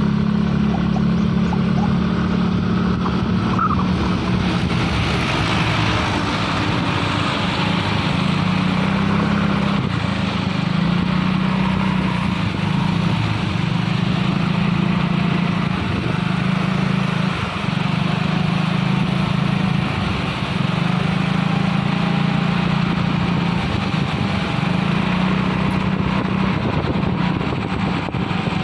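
Isuzu-based truck's diesel engine labouring steadily under heavy load on an uphill climb, a loud continuous low drone with mechanical noise above it.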